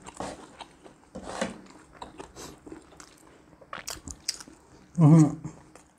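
People chewing and biting food, with irregular wet mouth clicks and smacks. There is a brief voice sound about five seconds in.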